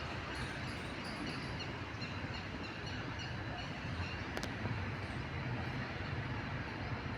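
Steady low trackside rumble of outdoor background noise, with faint high bird chirps in the first second or two and a couple of sharp clicks about four and a half seconds in.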